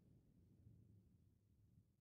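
Near silence: the last faint, low rumble of thunder dying away.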